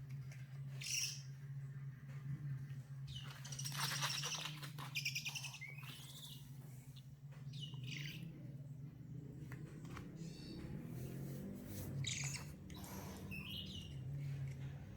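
Owl chick calling: a string of short, high-pitched screeches and chirps, some hissy and some falling in pitch, loudest about four seconds in, over a steady low hum.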